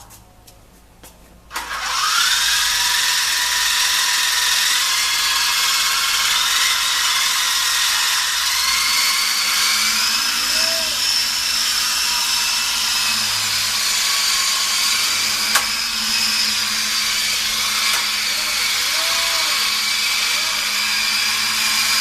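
Radio-controlled helicopter's motor starting up about a second and a half in: a loud high whine that rises quickly in pitch, then runs steadily, creeping slightly higher. A single sharp tick about two-thirds of the way through.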